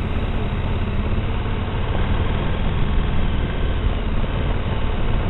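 Steady noise of a motorcycle ride: engine and wind rumble on the microphone, even and unbroken.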